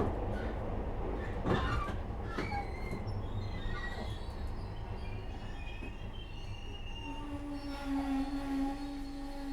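Metro-Cammell-built 2nd-generation Glasgow Subway train heard from inside the car while running: a steady rumble of wheels on rail with a few sharp knocks in the first two seconds. About seven seconds in, a steady pitched whine rises above the rumble.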